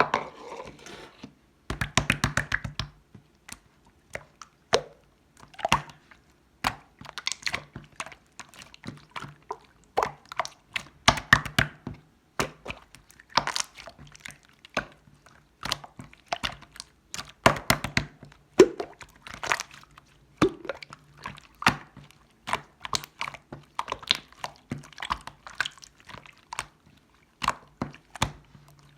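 Slime being kneaded and pressed by hand to mix two colours: wet squishing with many irregular sharp clicks and pops as trapped air bursts.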